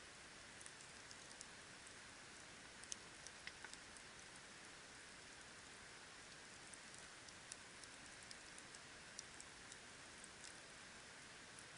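Campfire burning, heard faintly: a soft steady hiss with small irregular pops and crackles of the wood, a few a second.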